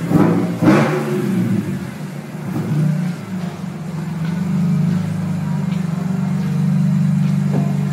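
BMW M3 engine through a custom exhaust, blipped once in the first second and then running on with a steady low drone that grows a little louder toward the end.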